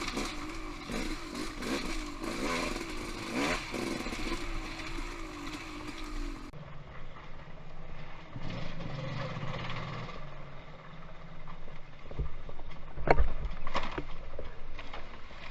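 Off-road motorcycle engine running on a rocky trail, with clatter and sharp knocks from the bike over rocks. About halfway through the engine note drops to a lower, steadier tone, and a few sharp knocks come near the end, the loudest sounds here.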